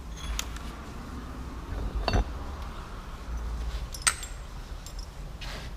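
Metal hand tools or parts clinking three times, sharp and ringing, as they are picked up and set down during the wheel bearing job, over a low steady hum.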